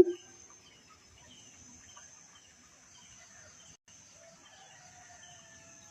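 The tail of a coucal's deep hooting 'but-but' series cuts off right at the start, leaving a pause with a steady high insect drone and faint scattered chirps of other birds; a soft, thin whistled note sounds near the end.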